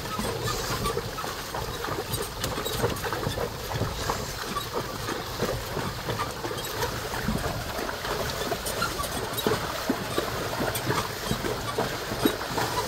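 Carabao-drawn cart with big wheels jolting over rough terrain: a continuous rattle of many small knocks and clatters.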